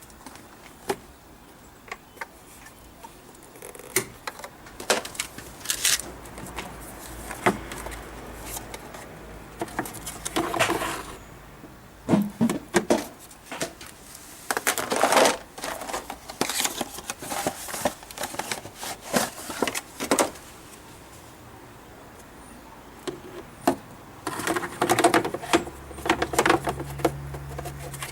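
Hands working on a Mazda Familia's plastic air filter housing and air cleaner element: irregular clicks, knocks and rustles of plastic parts and the filter being handled. A low steady hum comes in near the end.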